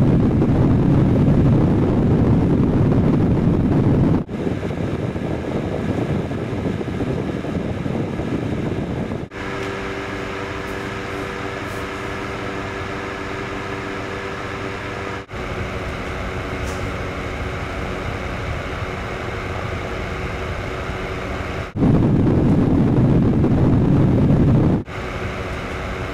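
Wind from an electric fan buffeting a Panasonic AG-AC90 camcorder's built-in microphone: first a loud, heavy low rumble, then with the bass rolled off by the wind noise canceller. About nine seconds in, with a furry stick-on windscreen over the mic, the rumble gives way to a softer rush and the fan motor's steady hum. The loud low rumble returns for about three seconds near the end.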